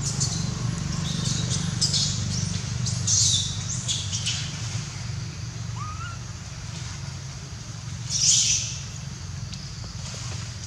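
Birds chirping in short clustered bursts, loudest about eight seconds in, over a steady low hum.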